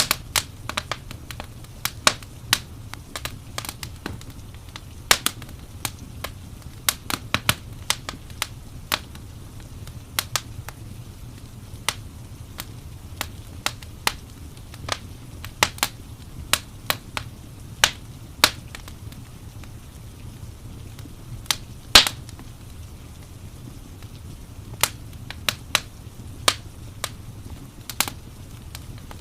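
Wood fire crackling in a fireplace: irregular sharp pops and snaps, some close together and some seconds apart, the loudest about 22 seconds in, over a steady low rumble.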